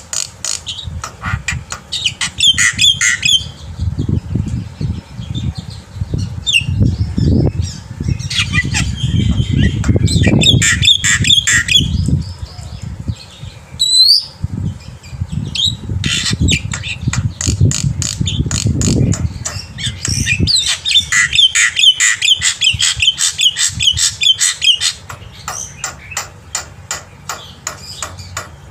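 Black-winged myna (jalak putih) singing hard: a long, varied song of rapid clicking chatter, short whistles and harsh squawks. A low rustling noise lies under it through the middle.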